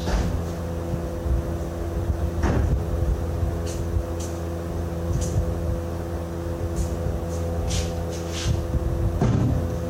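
An engine running steadily at an even pitch, with a few knocks and light metallic clicks of tools and parts being handled during truck steering repair work.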